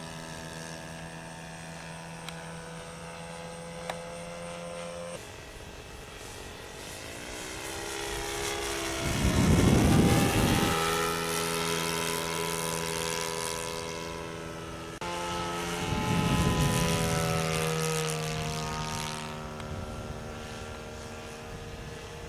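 ASP .61 two-stroke glow engine of a radio-control Cessna 182 running at high throttle in flight, a steady buzzing whine with a propeller. It swells loudest as the plane passes close about ten seconds in and again around sixteen seconds, with the pitch bending as it goes by, then fades with distance.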